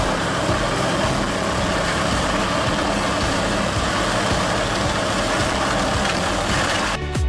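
Vermeer HG6000 horizontal wood grinder running steadily under load: heavy engine with a dense, even grinding noise. It cuts off abruptly near the end, replaced by music.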